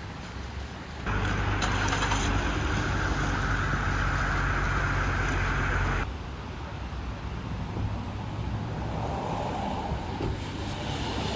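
Road traffic noise with a vehicle's engine rumble, louder for about five seconds and starting and stopping abruptly, then a quieter steady traffic hum.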